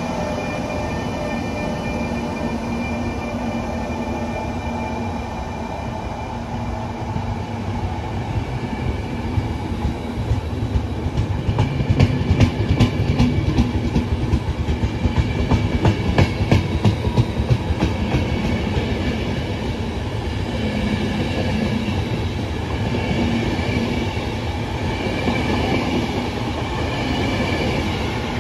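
An electric-hauled train passing through a station with a steady rumble. Its wheels set up a fast run of clicks over the rail joints and points, loudest about halfway through.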